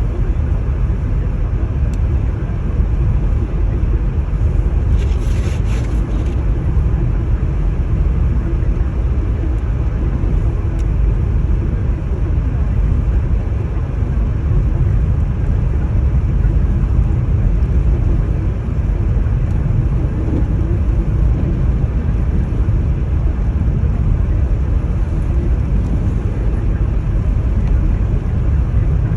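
Wind buffeting the microphone in a heavy snowstorm: a steady, uneven low rumble, with a brief hiss about five seconds in.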